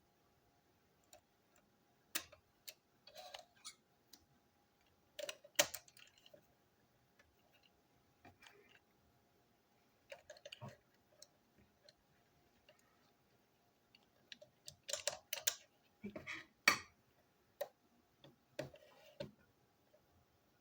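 Plastic toy train cars and parts being handled, taken apart and snapped together: scattered sharp clicks and light knocks in small clusters a few seconds apart, busiest about three-quarters of the way through.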